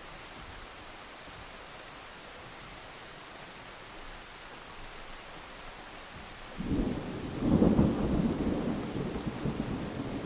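Steady rain hiss, then a thunderclap breaks in suddenly about two-thirds of the way through and rolls on as low rumbling thunder, loudest a second after it starts.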